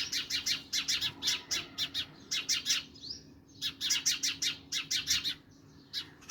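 Small birds chirping rapidly in long runs of short, high notes, about five or six a second, with two brief pauses. A faint steady hum lies underneath.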